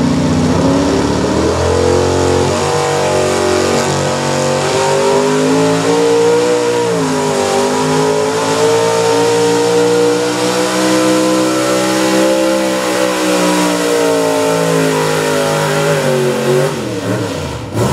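Pulling truck's engine at high revs through a pull: it revs up in the first two seconds, holds high and near steady with a brief dip about seven seconds in, then winds down near the end.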